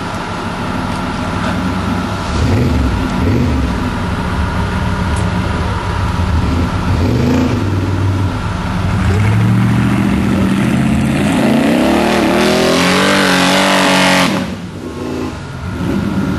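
Off-road truck engine revving in surges, then climbing to a long, hard rev that cuts off suddenly near the end.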